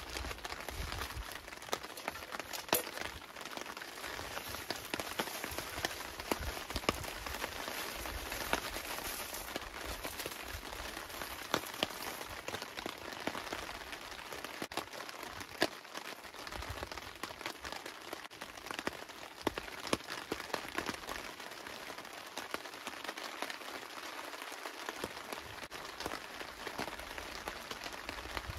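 Steady rain, with many single drops ticking sharply on a tarp overhead.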